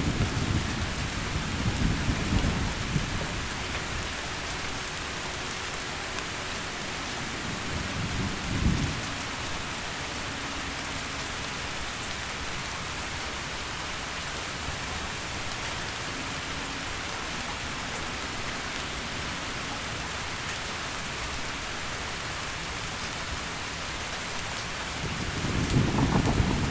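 Heavy rain falling steadily, with low rolls of thunder at the start, again about eight seconds in, and rising once more near the end.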